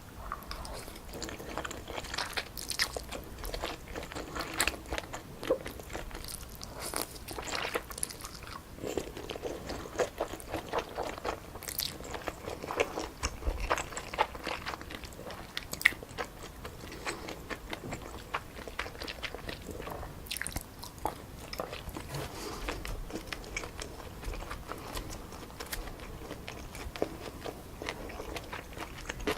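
Close-miked chewing and biting of stir-fried wide glass noodles with pork and vegetables, a dense run of irregular wet mouth clicks and soft crunches.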